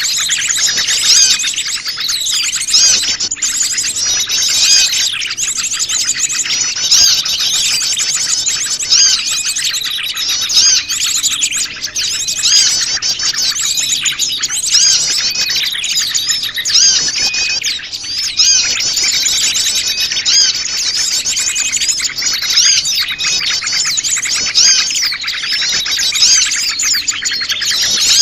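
A mixed chorus of many small wild birds chirping and twittering at once, calls overlapping without a break. It is a bird-lure call meant to draw small birds in.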